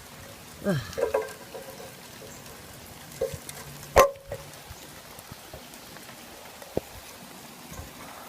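A sharp knock about four seconds in, with a smaller one near seven seconds, as a ladder is climbed, over a steady outdoor hiss. A short falling vocal sound about a second in.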